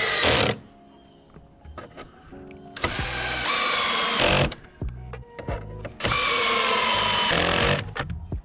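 Power driver running in the engine undertray fasteners in three bursts, the motor's whine dropping slightly in pitch as each fastener tightens, with small clicks and knocks between the bursts.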